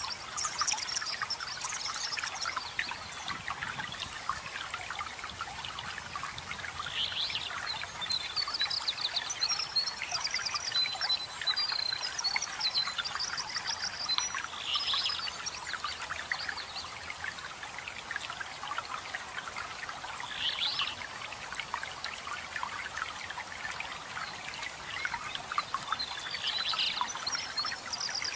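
Waterfall water pouring and trickling steadily, with songbirds chirping over it: rapid high trills about a third of the way in and again near the end, and short calls every few seconds.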